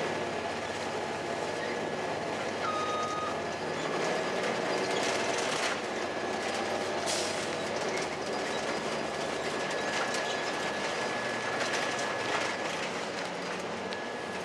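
2002 Blue Bird CS transit bus under way, its Cummins ISC diesel running: a steady road rumble with scattered rattles and clicks, and a faint steady high whine.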